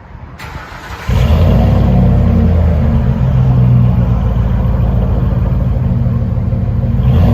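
Lincoln Mark LT's 5.4 L Triton V8 running through a dual exhaust with a Flowmaster Super 10 muffler and 4-inch roll tips, a steady low exhaust note at idle. About a second in it jumps to loud and holds steady.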